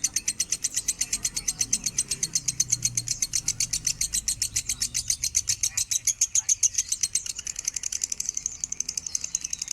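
Lovebird chattering in one unbroken run of fast, high chirps, about nine a second.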